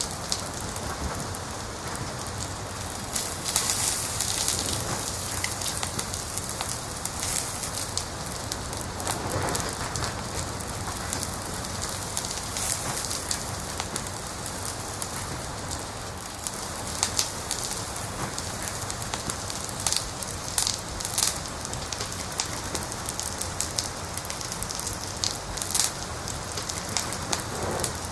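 Fire crackling: a steady hiss with scattered sharp pops, which come in clusters about two-thirds of the way through and again near the end.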